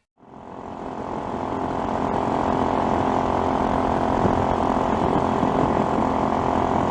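Motorcycle engine running steadily at cruising speed with wind and road noise, fading in from silence over the first couple of seconds.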